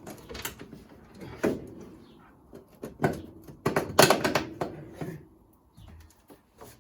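Scattered metallic knocks and clicks from handling nuts, bolts and tools while bolting a panel onto the car's chassis, with the loudest cluster of knocks about four seconds in.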